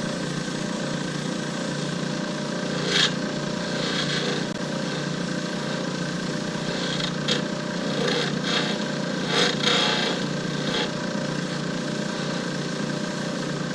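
Lathe motor running with a steady hum while a hand-held turning tool cuts the spinning cast blank in short scraping bursts: one sharp cut about 3 seconds in and a cluster of cuts between about 7 and 11 seconds in.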